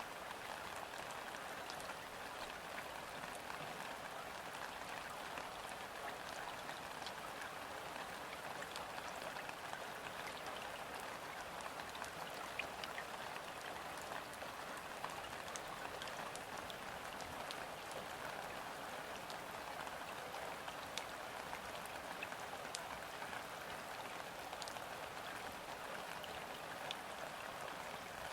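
Steady light rain falling on a river's surface: an even, gentle hiss with many scattered individual drops ticking close by.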